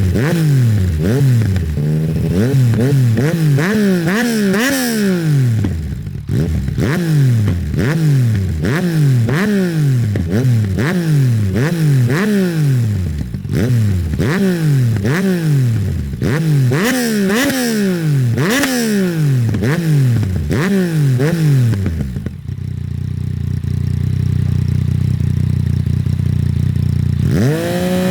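Yamaha MT-09 SP's inline three-cylinder engine through an Akrapovic Racing exhaust, revved in quick throttle blips, rising and falling about once a second. Near the end it settles to a steady idle for about five seconds, then revs once more.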